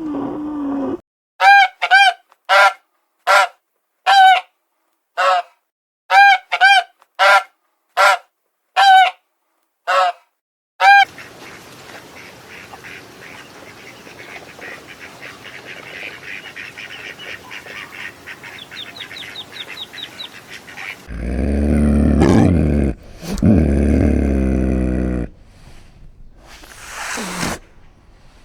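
A goose honking: a run of about fifteen short, sharp honks over some ten seconds. After a cut comes a quieter steady hiss with fast faint ticking, and then, about 21 seconds in, a loud deep sound lasting about four seconds.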